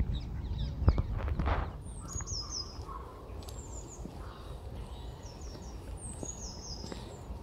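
A small songbird singing short, high, stepped phrases twice, about two and six seconds in. Under it runs a low outdoor rumble, heavier in the first two seconds, with one sharp knock about a second in.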